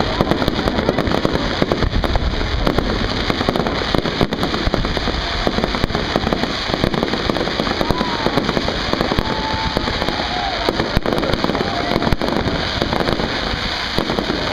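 Fireworks display: aerial shells bursting with a dense, continuous crackle of many small pops and bangs.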